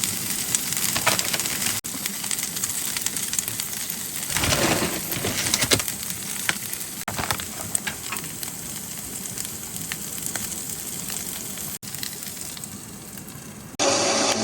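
Food sizzling and spitting in a hot pan, a steady hiss full of small crackles. Near the end it gives way abruptly to a louder, steady motor hum.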